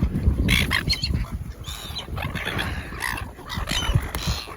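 Gulls calling: a string of short, overlapping squawks over a low rumble.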